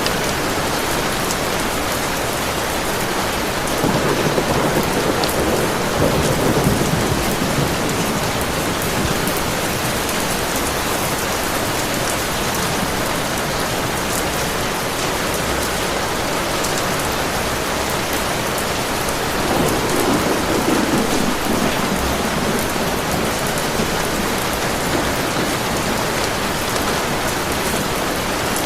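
Heavy rain falling steadily, with two rolls of thunder: one about four seconds in lasting a few seconds, another around twenty seconds in.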